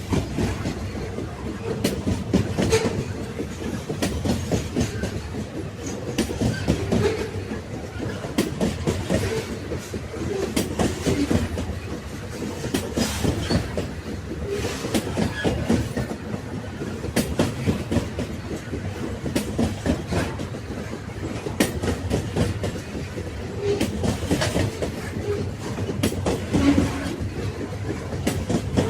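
Railway wagons rolling along the track: a steady low rumble of wheels on rail, cut through by repeated clacking and knocking as the wheels pass over rail joints.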